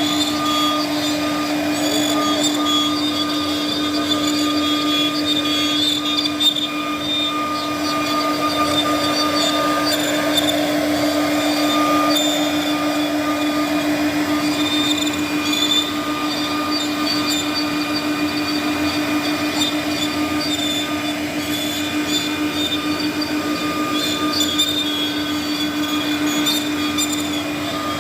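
CNC router spindle running with a steady whine while the bit cuts wood, the cutting noise swelling and easing as the tool moves.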